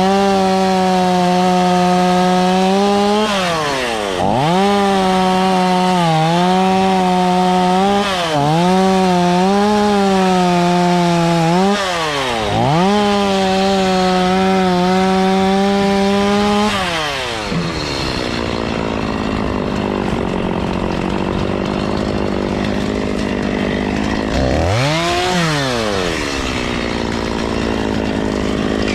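Two-stroke chainsaw cutting wood: the engine runs at full throttle and dips and recovers again and again as the chain bites. About 17 s in it drops to idle, revs briefly about 25 s in, and climbs back to full throttle near the end.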